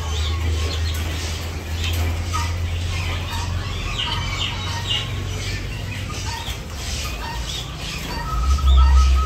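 Caged birds calling: a scatter of short calls over a steady low rumble, which swells shortly before the end.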